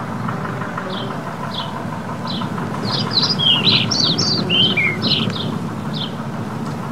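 Small birds chirping: short, high chirps repeating about twice a second, with a flurry of louder, varied calls and trills in the middle, over a steady background hum.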